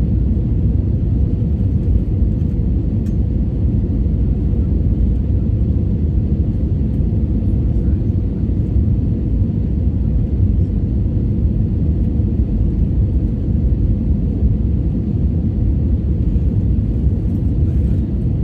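Steady low rumble of a jet airliner in flight, engine and airflow noise as heard inside the passenger cabin while the plane descends.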